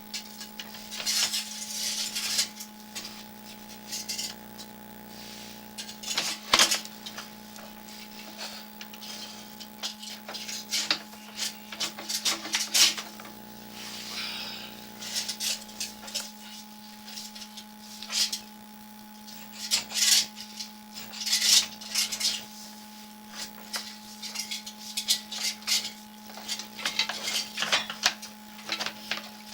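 Sewer camera head and push rod scraping and clinking against the inside of a drain pipe as they are pushed along, in irregular clicks and scrapes over a steady hum.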